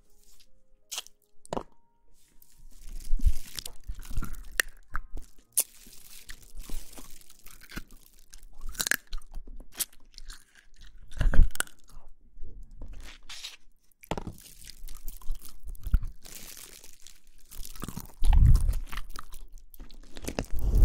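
Close-miked ASMR crunching and crackling in irregular bursts, with soft low thumps every second or two.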